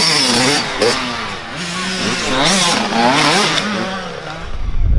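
Several small dirt-bike engines revving, their pitches rising and falling and overlapping as the bikes run on and off the throttle. Near the end, wind buffets the microphone with a low rumble.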